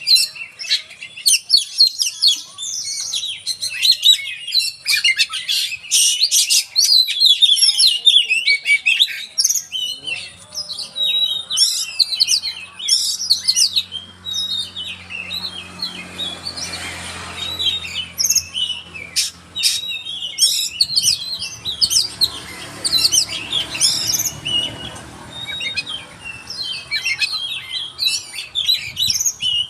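Oriental magpie-robin (kacer) singing a long, varied song of rapid whistled and chattering phrases, thinning briefly in the middle while a low hum runs underneath.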